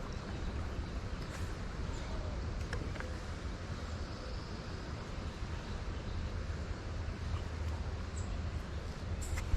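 Wind buffeting the microphone: a steady low rumble and hiss. A sharp knock sounds near the end.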